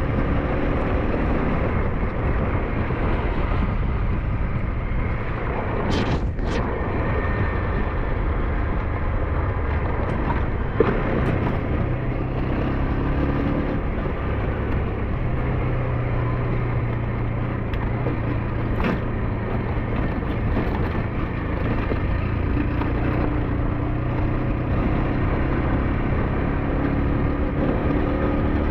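SYM NH-T 200 motorcycle's engine running steadily while riding, with road noise, its pitch shifting now and then, and a couple of sharp knocks about six seconds in.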